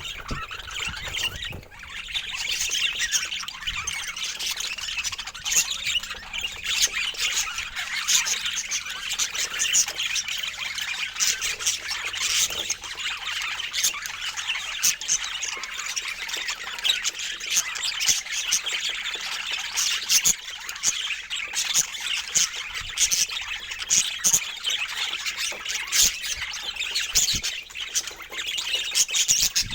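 A flock of birds chattering, with many short chirps and squawks overlapping without a break.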